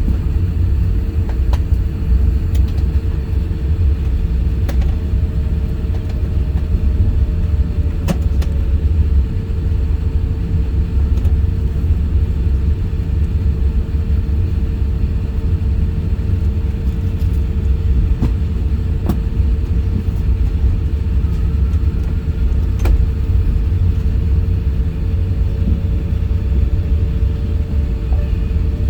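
Airbus A350-1000 cabin noise: a steady loud low rumble with a constant engine hum and a few faint clicks scattered through.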